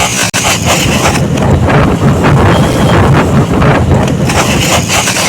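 Motorcycle running on the road, with heavy wind noise buffeting the microphone.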